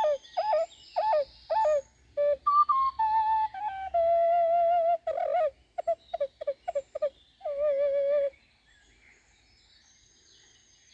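Ocarina tuned to A=432 Hz playing a melody in D minor pentatonic: short notes that swoop downward, then longer held notes with vibrato. The playing stops about eight seconds in, leaving only a faint background.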